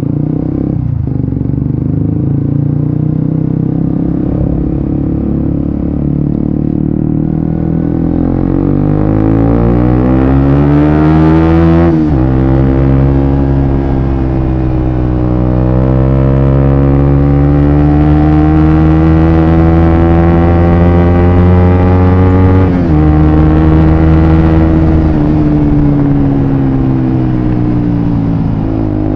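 Suzuki GSX-S150's single-cylinder four-stroke engine running through an aftermarket Quinze Big Volume exhaust under way. The revs climb from about eight seconds in, fall sharply at a gear change about twelve seconds in, climb again, and fall at another shift near twenty-three seconds before holding steady.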